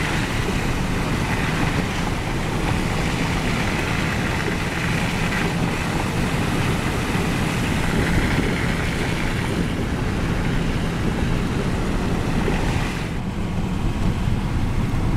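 Inside a pickup truck's cab while driving on a snow-covered road: a steady low rumble from the engine and tyres under a rushing hiss. The hiss eases about thirteen seconds in.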